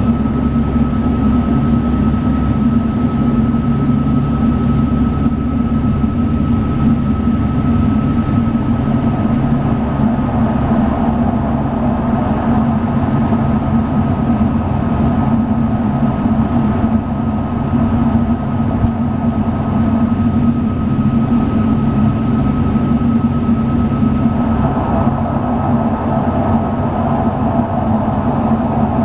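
Twin turboprop engines and propellers of a Saab 340B droning steadily, heard from inside the passenger cabin, with a thin steady whine above the low hum.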